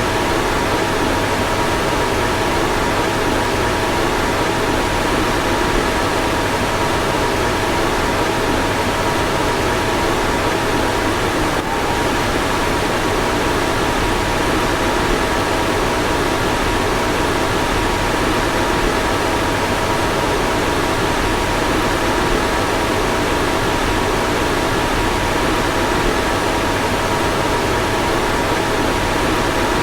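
Car fan running steadily: an even rush of air with a faint, constant two-note whine. A single faint click comes a little before the middle.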